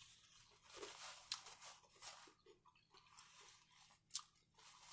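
Faint close-up chewing of a mouthful of cheesy shrimp nachos, with soft irregular crunching of tortilla chips and a few sharp crackles, one about four seconds in.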